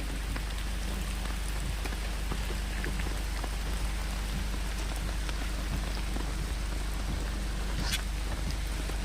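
Steady rain falling, with scattered drops ticking on nearby surfaces and one sharper drop about eight seconds in.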